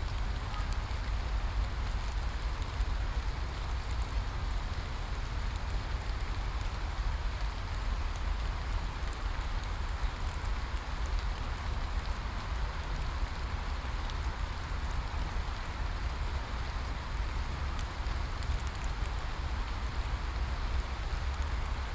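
Steady rain falling: an even hiss of drops with a low rumble underneath and scattered small ticks of individual drops.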